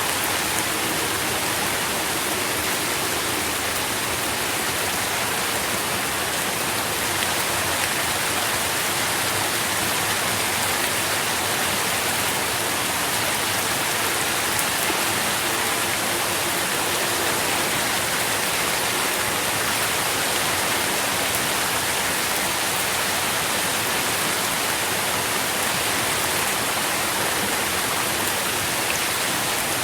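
Steady rain falling, heard as an even hiss of many drops with no breaks.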